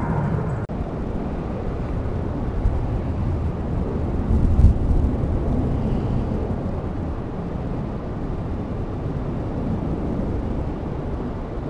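Wind buffeting the camcorder microphone: a steady low rumble that swells about four to five seconds in.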